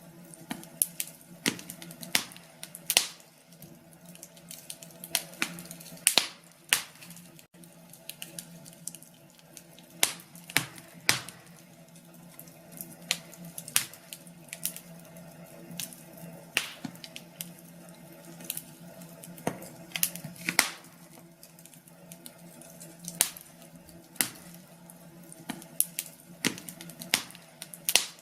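Wood fire in a fireplace crackling, with irregular sharp pops and snaps a few times a second over a low steady hum.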